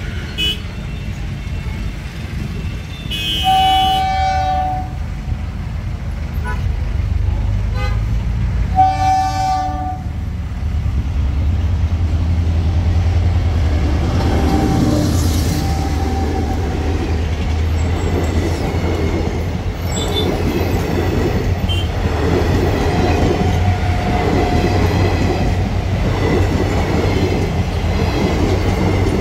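Indian Railways ICF-built passenger multiple-unit train sounding two horn blasts, each about a second and a half long and about five seconds apart, as it approaches a level crossing. It then passes close by with a loud steady rumble of the power car and the clatter of wheels on the rails.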